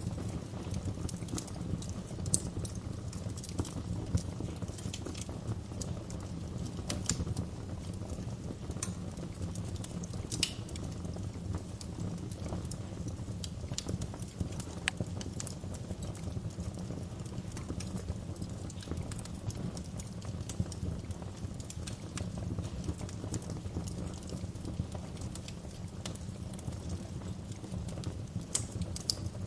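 Wood fire in a fireplace crackling: a steady low rumble of burning with irregular sharp pops and snaps, a few of them louder than the rest.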